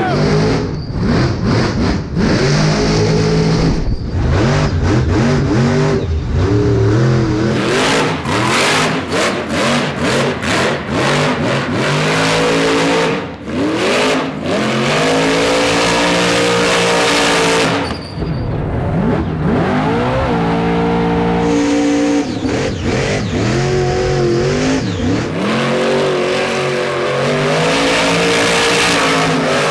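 Monster truck's supercharged V8 revving hard and falling again and again as it spins and slides, with sharp cracks and bangs among the revs.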